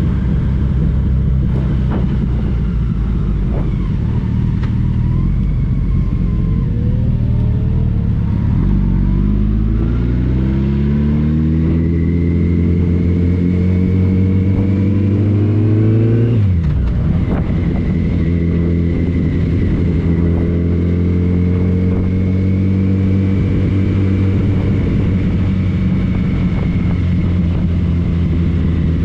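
Yamaha FJR 1300's inline-four engine running under way. It holds steady, then the revs climb for about eight seconds and drop sharply at a gear change a little past halfway, before it settles into a steady pull again.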